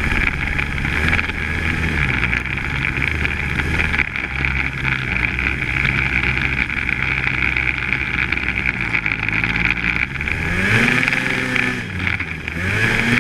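Polaris Axys 800 snowmobile's two-stroke twin engine running under way with a steady high whine, its pitch climbing twice near the end as it revs.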